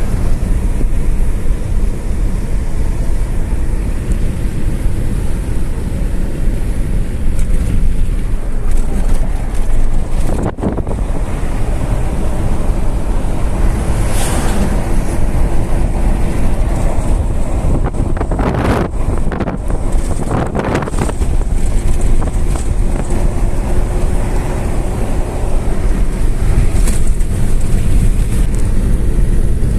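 Steady rush of road and wind noise from a car driving on a highway, with a few brief louder rushes in the middle.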